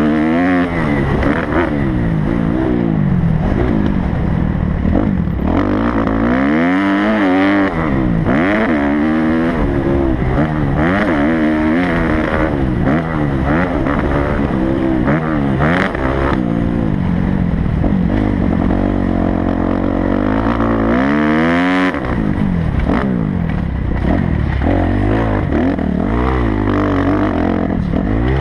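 Kawasaki motocross bike's engine revving up and down over and over as the throttle is opened and closed around the track, the pitch climbing sharply on each run and dropping back between them.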